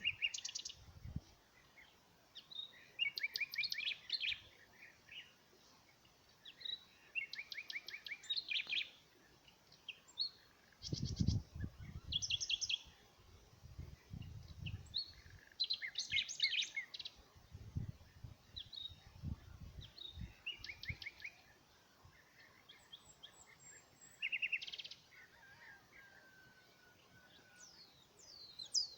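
Songbirds singing outdoors: short, repeated trilled and chirping phrases from several birds, with occasional low rumbles in between.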